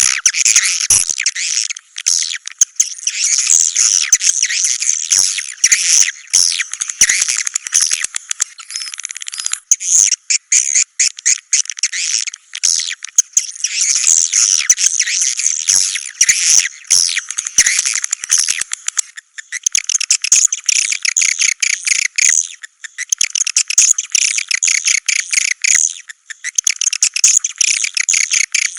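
Recorded swiftlet calls played as a lure for a swiftlet house: dense, high-pitched chirping and twittering with brief pauses every few seconds.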